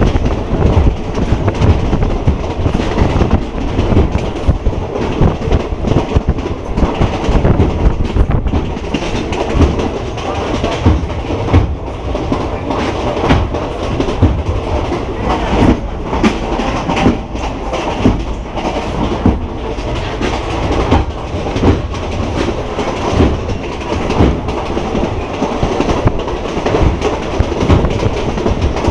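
Passenger train running at speed, heard from inside a carriage with open windows: a steady rumble of wheels on track with frequent irregular knocks and clatter over the rail joints.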